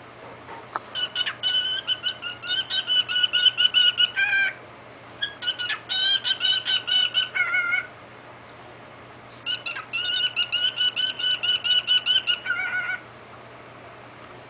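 Cockatiel chattering in its mimicking voice to its mirror image, fast runs of high, buzzy syllables in three bouts with short pauses between.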